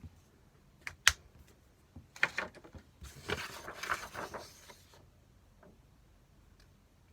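Eating and tableware noises during a meal of spicy stir-fried pork: a sharp click about a second in, a few quick taps a second later, then a rustling, scraping stretch lasting about two seconds before it goes quiet.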